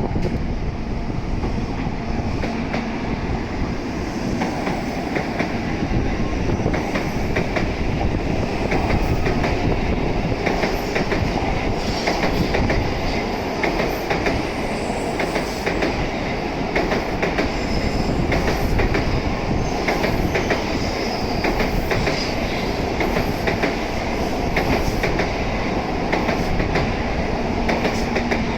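N700S Shinkansen train moving through the station tracks: a steady rumble of running gear, with wheels clicking over rail joints and points, the clicks coming thick and irregular from about six seconds in.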